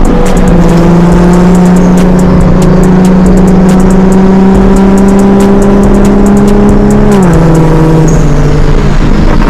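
Car engine under load, its note climbing slowly for about seven seconds, then dropping at a gear change and holding lower.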